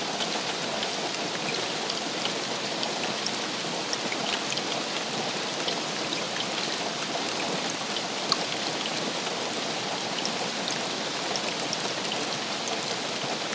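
Steady rain falling, with many separate drops ticking through the hiss and one sharper drop about eight seconds in.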